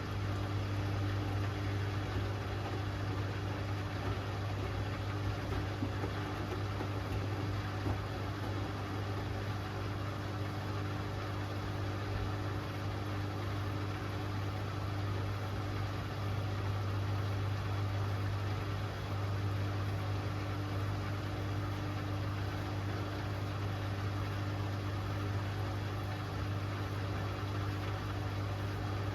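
Hoover Axi 10 kg washing machine running steadily partway through its Rapid 30-minute programme, with a strong, constant low hum and a fainter higher tone over a hiss.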